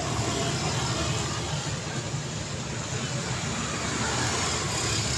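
Steady road traffic: a continuous mix of car engines and tyre noise with no single event standing out.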